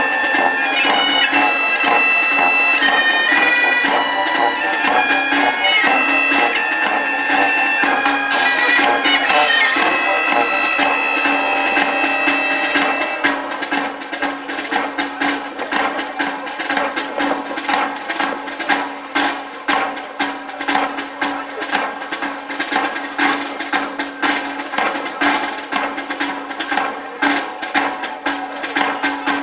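Bagpipes playing a melody over their steady drone, with drums. About halfway through the melody stops, leaving the drone under rapid snare-style drumming.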